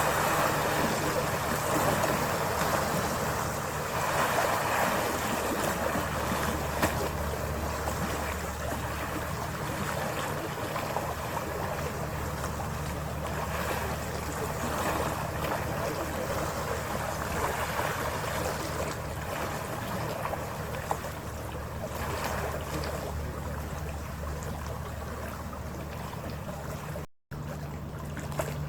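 Passenger ferry running under way: a steady low engine drone mixed with rushing water and wind noise. The sound cuts out for a moment near the end.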